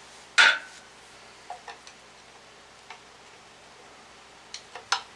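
Metal tools clinking and tapping against an aluminium engine cover while it is pried loose from its dowel pins: one sharp, briefly ringing clink about half a second in, a few light ticks, then a quick cluster of clicks near the end.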